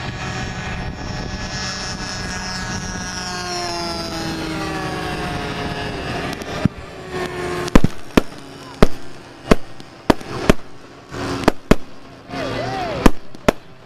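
Radio-controlled model airplane engines drone, their pitch sliding down as they fly past. About halfway in, a string of a dozen or so sharp firecracker bangs begins at uneven spacing, pyrotechnics for the mock air combat.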